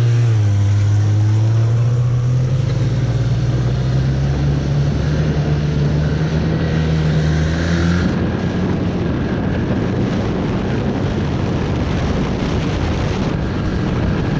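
Arctic Cat Norseman 3000 snowmobile engine running under load, its pitch rising slowly as the sled picks up speed, then running rougher and steadier for the rest.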